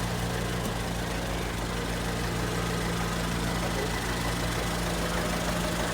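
Ford Model T four-cylinder flathead engine idling steadily after starting.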